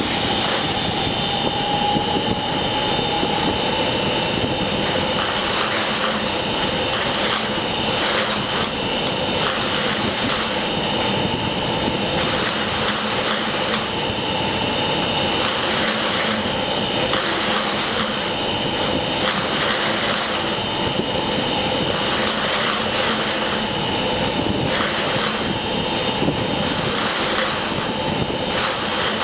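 Industrial machine (unit No. 1) running under part load, a steady drone with a constant whine, overlaid by an irregular rushing surge every second or so; this is the abnormal noise being checked for at 30 to 60% load.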